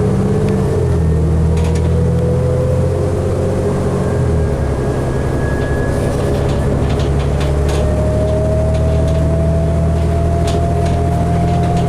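Diesel drivetrain of a 2012 New Flyer D60LFR articulated bus heard from inside the cabin while under way: a steady low engine drone, plus a whine that climbs slowly in pitch as the bus gathers speed. The engine note shifts about four seconds in.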